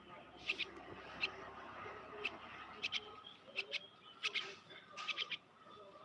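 A bird calling with short, high, sharp chirps, many in quick pairs or triplets, repeated every half second to a second.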